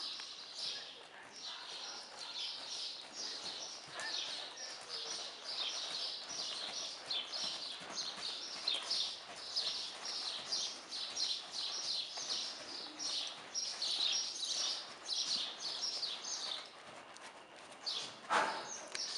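Small birds chirping continuously, many short high chirps a second, with one short louder noise near the end.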